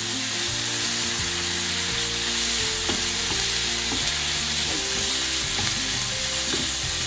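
Sliced pork, carrot and onion sizzling steadily in a frying pan, stirred and turned with a wooden spatula.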